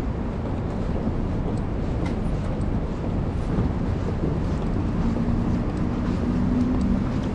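City street traffic: a steady low rumble of passing vehicles, with a low engine hum from about five seconds in.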